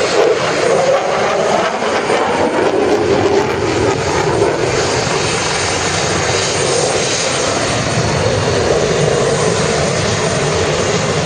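Eurofighter Typhoon fighter jet flying a display with its twin EJ200 turbofans running. The jet noise wavers and sweeps in pitch for the first four seconds or so, then holds steady.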